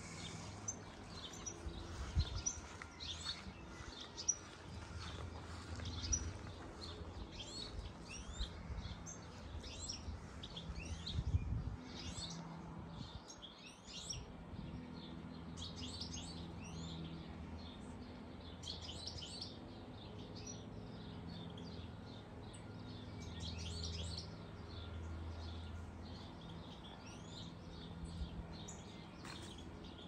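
Small songbirds chirping and twittering in quick high notes, on and off throughout, over a low steady rumble. A few soft bumps stand out about two, six and eleven seconds in.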